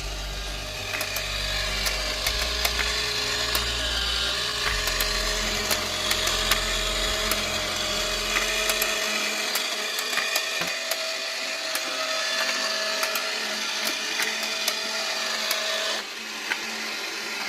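Battery-powered four-cylinder toy model engine running: its small electric motor whirs steadily while the plastic pistons and crank clatter and tick. It stops about sixteen seconds in.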